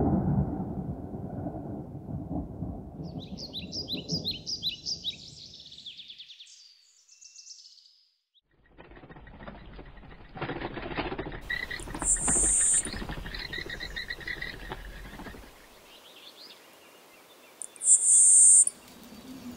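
Thunder rumbling and fading away, with quick high bird chirps over its tail. After a short hush, an outdoor bed of birdsong follows, with two loud, very high-pitched calls.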